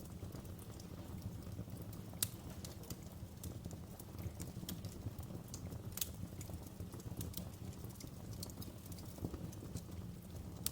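Wood fire crackling in a fireplace: irregular sharp pops and snaps over a steady low rumble of the flames, with louder pops about two seconds in and again about six seconds in.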